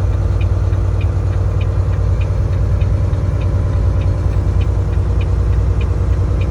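Steady low drone of a truck's engine and road noise heard inside the cab. A turn-signal indicator clicks evenly, about five clicks every three seconds.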